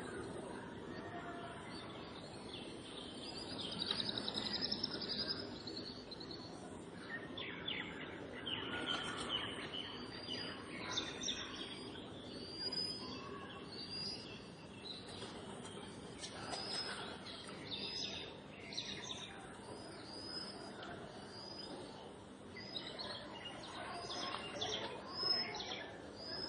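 Birds chirping: many short, high chirps repeated throughout, more thickly in the last few seconds, over a faint steady low background noise.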